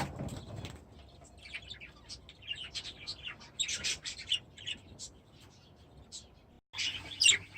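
Small cage birds chirping in short, scattered calls, fainter for a few seconds, then breaking off briefly and coming back louder near the end.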